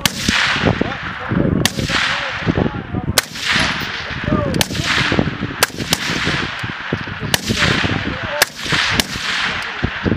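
Small-arms gunfire on a live-fire range: single shots at uneven intervals, about nine in ten seconds, each a sharp crack followed by a long rolling echo.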